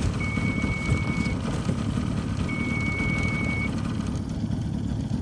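Boat motor running steadily, with water and wind noise. A high electronic beep sounds twice, each lasting just over a second.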